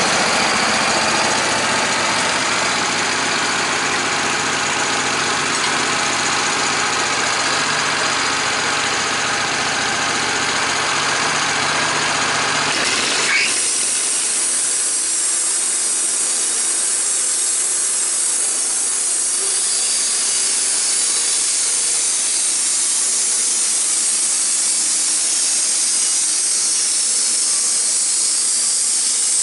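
An engine running steadily. About 13 seconds in it gives way abruptly to a steady, even hiss.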